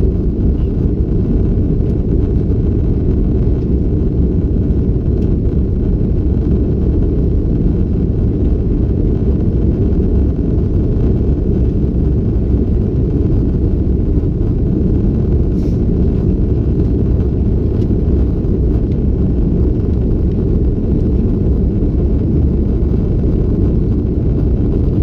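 Steady low cabin rumble inside a Qantas Airbus A330-200 in its climb, the sound of the jet engines and airflow heard through the fuselage.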